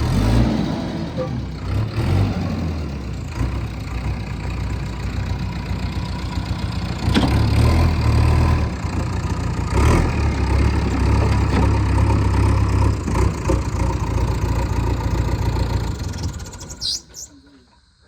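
Diesel engine of heavy earth-moving machinery running, its low drone working harder through the middle, with a couple of sharp knocks. It fades away near the end.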